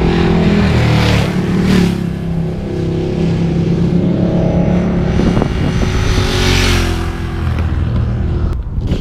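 Sport motorcycle engines running hard and revving, with shifting engine pitch and two louder rushes, about a second in and again about six seconds in.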